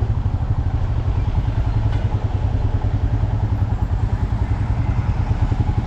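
Motorcycle engine running steadily at cruising speed, heard from the moving bike, with a rapid even pulsing and road and wind noise over it.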